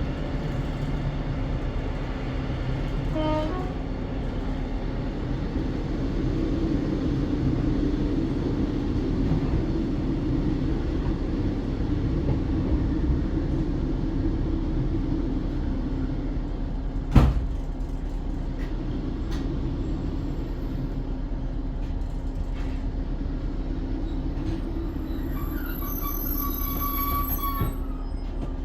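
Diesel train running with a steady engine drone, with one sharp knock about two-thirds of the way through and a brief high squeal near the end.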